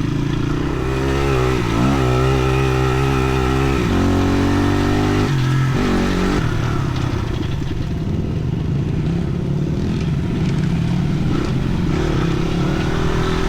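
Dirt bike engine running under way. Its pitch rises and falls several times in the first six seconds, then holds steadier.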